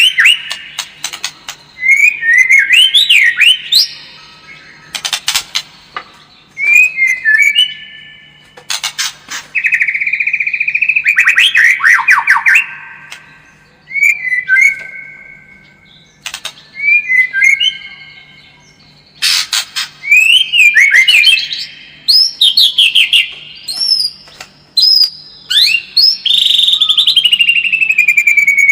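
White-rumped shama (murai batu) singing loudly in short phrases every couple of seconds: rising and falling whistled notes mixed with sharp clicking rattles, and a long descending whistle near the end. This is a lure song used to provoke a caged male into fighting song.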